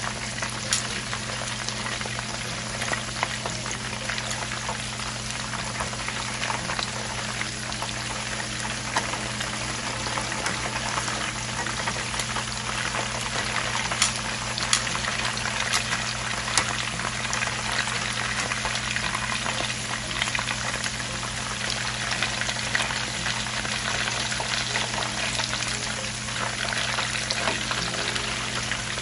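Shrimp frying in hot oil in a pan: a steady sizzle with frequent pops and crackles. A steady low hum runs underneath.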